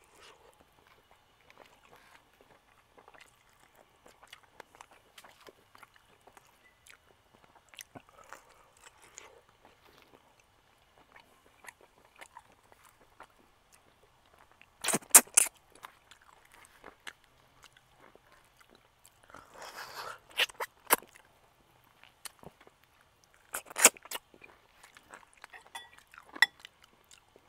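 Close-up chewing and biting of charcoal-grilled food, with soft wet mouth clicks throughout and louder crunches three times, near the middle and later on.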